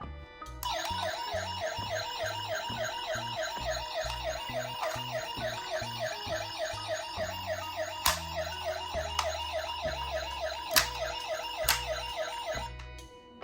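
Toy ambulance's electronic siren wailing in a fast repeating yelp, several falling sweeps a second, starting just after the beginning and cutting off near the end. A few sharp clicks sound over it.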